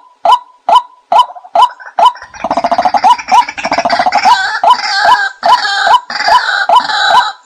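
Watercock calls played as a decoy lure: short hooked call notes repeated a little over twice a second. About two seconds in, a denser bubbling, gargling chorus joins them and carries on as the notes keep repeating.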